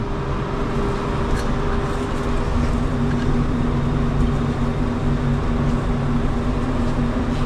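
Steady rushing air noise with a constant low machine hum, unchanging throughout, from the compressed-air and extraction equipment of a spray-painting setup.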